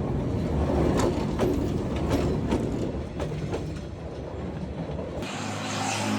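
Train passing, its wheels clattering over the rail joints in a quick, uneven run of clicks over a heavy low rumble. The sound breaks off abruptly about five seconds in.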